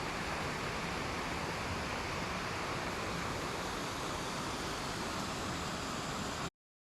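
Steady rushing of flowing water, even and unbroken, cutting off abruptly near the end.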